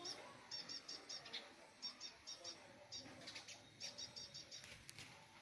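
Small bird chirping faintly, high short notes in quick runs of three to five, repeated several times.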